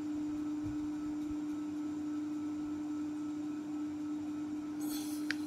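A steady low hum held at one pitch, with a brief faint scratch and a small click near the end.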